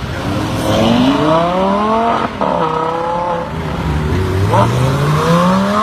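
Lamborghini V10 engine accelerating as the car pulls away. The revs climb, break off at a gearshift about two seconds in, sag, then climb again.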